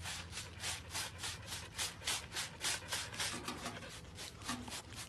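Rapid, even rubbing or scraping strokes, about four or five a second.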